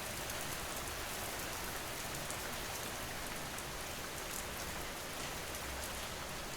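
Steady rainfall, an even hiss with fine drop patter, falling without pause.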